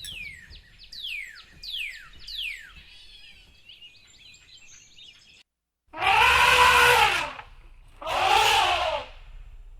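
Four quick chirps falling in pitch, one about every half second. After a short silence come two loud, drawn-out animal calls, each rising then falling in pitch.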